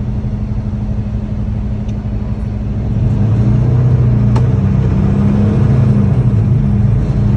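Car engine and road noise of a vehicle driving on a highway: a steady low hum that gets louder about three seconds in.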